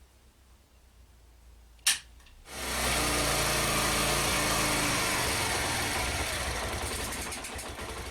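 A sharp click, then about half a second later the Suzuki TU250X's single-cylinder engine starts and runs steadily, slowly fading near the end.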